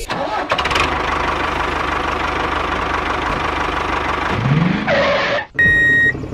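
Engine of a mini bulldozer running steadily, with a brief rising sweep about four and a half seconds in. After a short break near the end, a high reversing beep sounds once.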